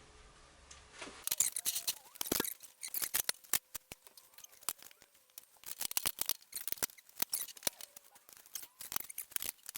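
A rapid, irregular run of sharp clicks and short scrapes, as of metal lathe parts being handled and fitted by hand.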